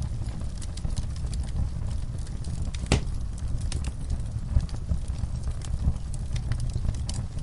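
Wood fire of burning logs crackling, with a steady low rumble of flames and scattered sharp pops; one louder snap about three seconds in.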